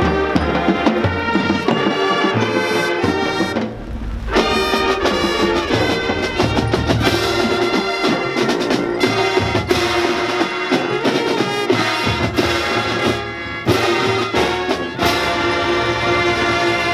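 High school marching band playing: brass chords over drums, dipping briefly about four seconds in.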